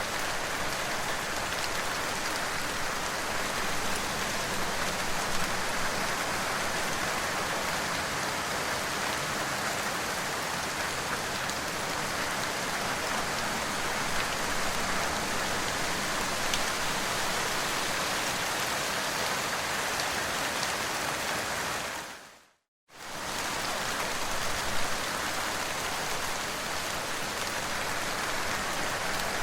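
Steady, heavy rainfall, an even hiss with scattered drop ticks. About 22 seconds in it fades out to silence for under a second and comes straight back.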